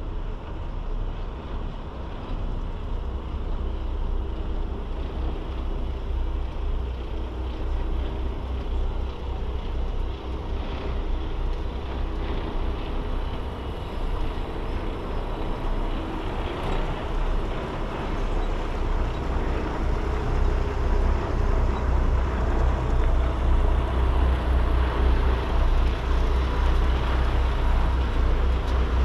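Semi truck driving, heard from inside the cab: a steady low drone of diesel engine and road noise that grows a little louder over the second half.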